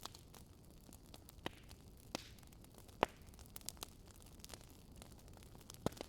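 Wood fire crackling over a soft steady hiss, with scattered sharp pops, the loudest about halfway through and another near the end.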